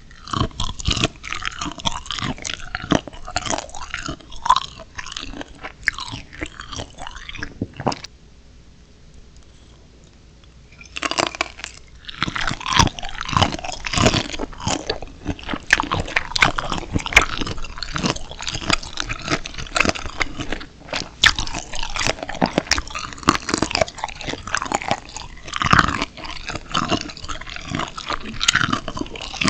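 Close-miked, crunchy biting and chewing of steamed shrimp. There is a pause of about three seconds after about eight seconds, and then the crunching starts again.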